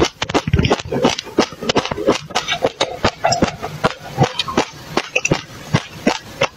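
Close-miked chewing of a mouthful of dry mixed seeds: a dense run of fast, crisp crunches and crackles. Partway through, a drink of water is swallowed between bites.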